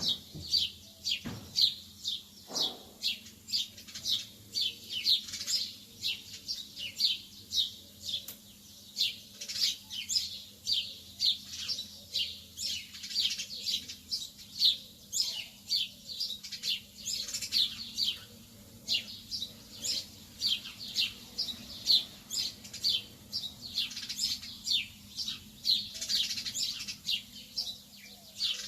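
Lovebirds chirping: a continuous stream of short, high-pitched chirps, several a second, overlapping from more than one bird.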